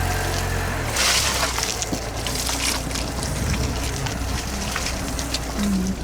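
Car driving slowly over rough dirt ground, heard from inside: a steady low engine and road rumble with many small crackles and knocks from the tyres and body.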